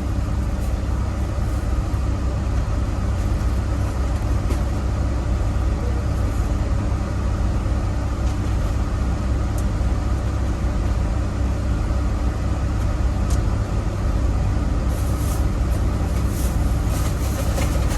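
Tractor-trailer's diesel engine running with a steady low drone, heard from inside the cab, with a few faint rattles near the end.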